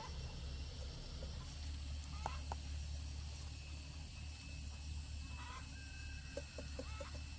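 Chickens clucking, with short calls here and there and a quick run of clucks near the end, over a steady low rumble.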